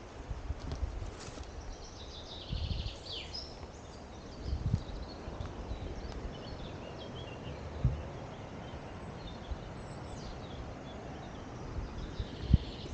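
Small birds chirping and calling, a few short gliding notes scattered through, over irregular low thumps and rumble, with a sharper knock near the end as the loudest sound.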